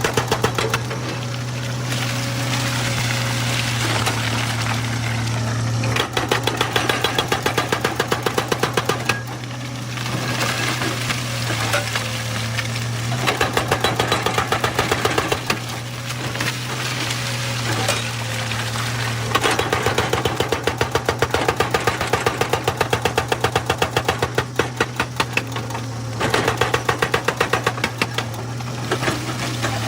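Excavator-mounted hydraulic breaker hammering rock in several bursts of rapid blows, several a second, over the excavator's diesel engine running steadily.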